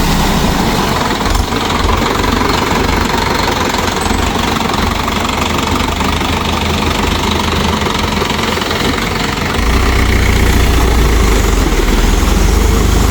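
Mahindra 4WD diesel tractor engine running with a steady diesel clatter. It gets louder and deeper from about ten seconds in.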